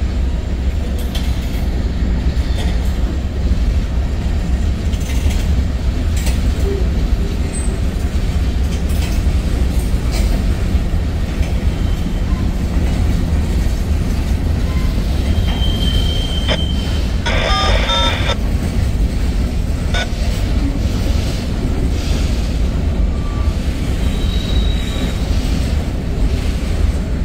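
Freight cars of a long mixed freight train rolling past: a steady rumble of steel wheels on rail, broken by a few short high wheel squeals, the loudest about 17 seconds in.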